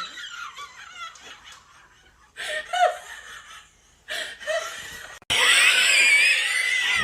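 Scattered laughing and giggling, then, about five seconds in, a sudden loud high-pitched wavering squeal that carries on to the end.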